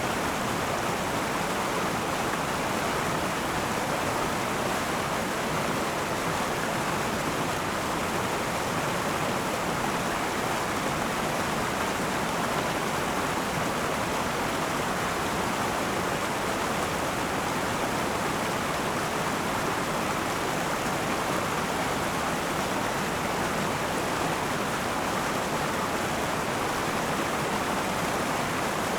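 River water rushing and babbling over rocks, a steady, unbroken flow.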